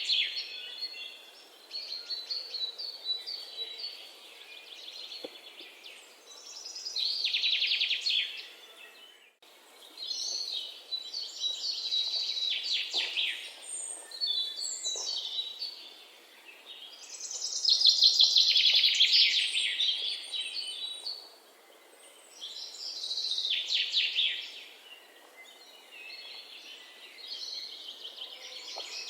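Songbirds singing in a forest: a rapid trilled song phrase of a few seconds recurs every four to six seconds, with softer chirps from other birds between phrases.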